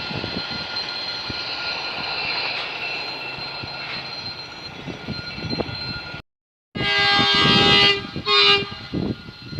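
A freight train running past with a steady rumble and a few knocks, then, after a brief break, its locomotive horn sounds one long blast and a short second one.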